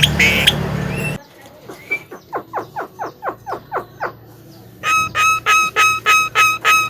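Javan myna calling: a fast run of short falling notes, then a loud, evenly repeated note about twice a second.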